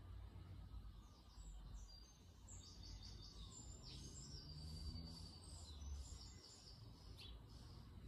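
Faint bird song: a fast run of short, high notes with a trill, starting about a second in and stopping near the end.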